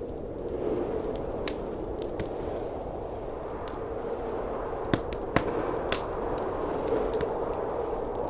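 Wood fire crackling, with scattered sharp pops, over a steady rush of blizzard wind.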